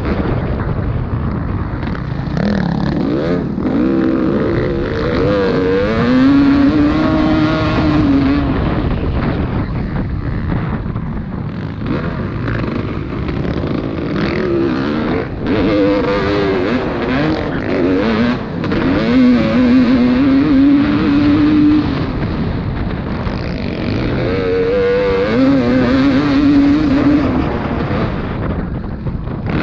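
Motocross dirt-bike engines revving hard on the track. The engine pitch rises and falls several times as the riders open and close the throttle through the course.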